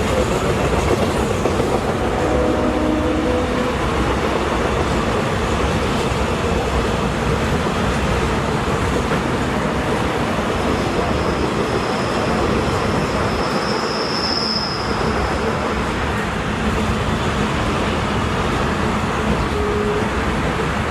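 A train running on the rails with a steady rolling rumble of wheels on track. From about halfway through, a thin high wheel squeal rises for a few seconds, then fades.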